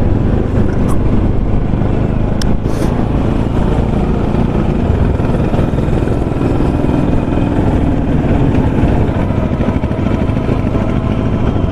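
Motorcycle engine running steadily while riding along at an even speed, with a couple of brief clicks early in the ride.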